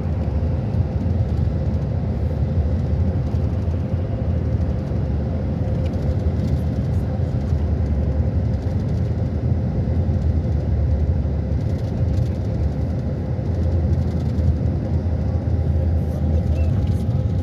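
Steady low rumble of a running motor vehicle, with a faint steady whine throughout and a second, higher whine joining near the end.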